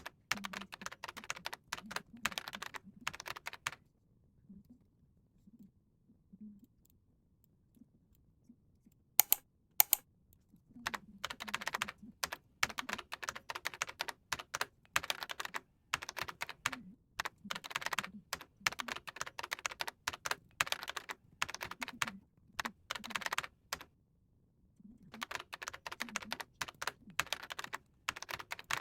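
Typing on a computer keyboard in three runs of rapid key clicks with pauses between them, and two sharper, louder clicks about nine and ten seconds in.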